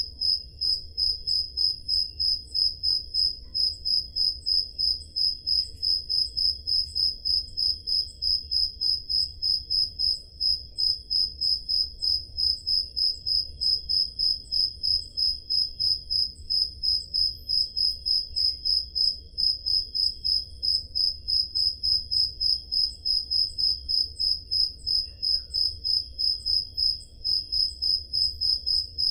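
Crickets chirping on a summer night: one high-pitched cricket chirps in an even, unbroken rhythm of a few chirps a second, with fainter insects trilling more steadily behind it.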